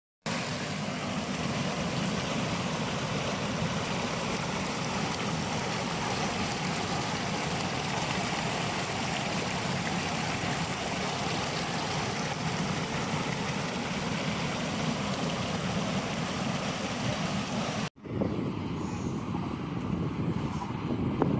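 Steady rush of flowing water, a stream or river running continuously. Near the end it cuts off for an instant and resumes with a duller sound.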